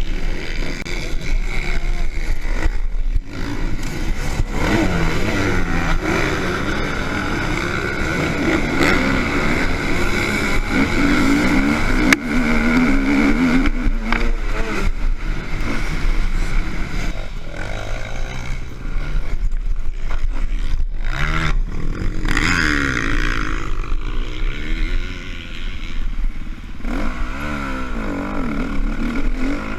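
Several motocross bikes racing, their engines revving up and down in pitch as the riders work the throttle, with more than one bike heard at a time. A sharp click about twelve seconds in.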